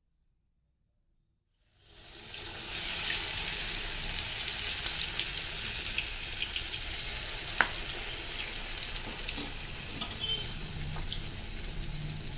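Near silence at first, then vadai batter deep-frying in hot oil in a small pan. A steady sizzle fades in about two seconds in, and there is one sharp click about seven and a half seconds in.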